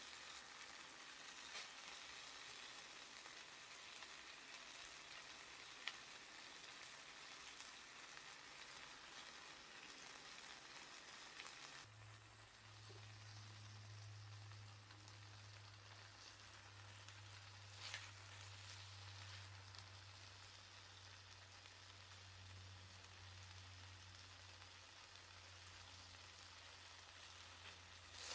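Faint sizzling with a few sharp crackles from chicken grilling over a small wood fire. About halfway through, a low steady hum comes in underneath.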